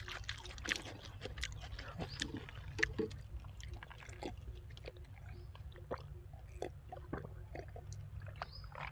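A person chewing food, with many short, scattered mouth clicks and smacks.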